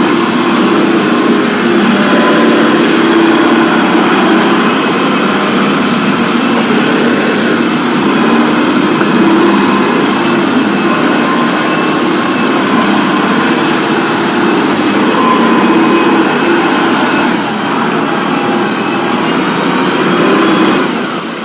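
A small engine running steadily and loud, easing off just before the end.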